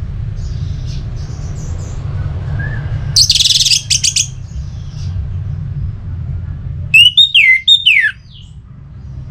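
Orange-headed thrush calling: a harsh rattling burst about three seconds in, then a quick run of about four loud whistled notes sliding downward about seven seconds in, over a steady low rumble.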